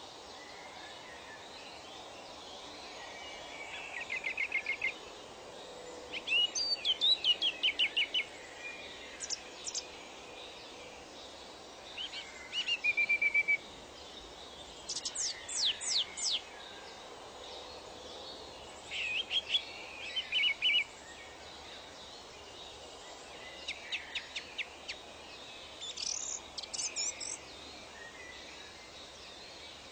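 Songbirds calling in short bursts of rapid chirping notes every few seconds, some as quick falling whistles, over a steady background hiss of natural ambience.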